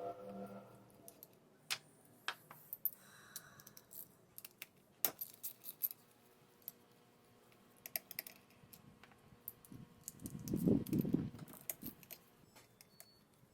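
Scattered light clicks and metallic clinks of small parts and hand tools being handled, with a short low noise about eleven seconds in.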